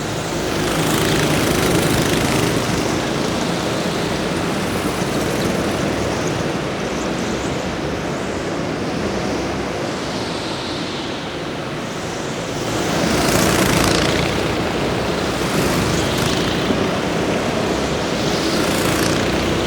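Racing engines passing by several times over a steady noisy background, with louder swells about a second in, about two-thirds of the way through and near the end.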